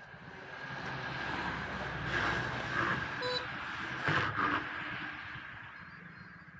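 A road vehicle driving past: its noise builds, peaks in the middle, then fades away.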